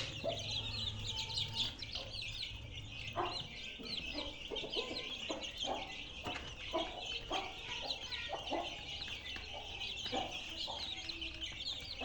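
Domestic chicks peeping in a dense, continuous chorus of short high chirps, with short low clucks from chickens scattered through it.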